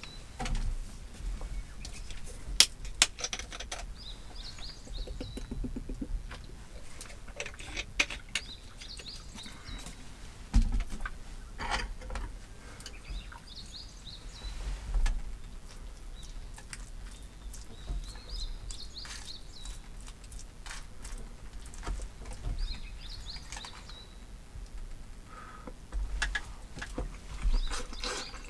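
A bird outside repeating the same short, high call every few seconds, over close clicks and knocks of chopsticks and a bowl as someone eats.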